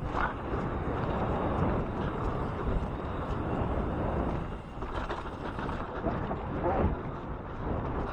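Wind rushing over the microphone and knobby tyres rolling on a dirt trail as a 26-inch mountain bike rides a jump line, with a few brief louder knocks.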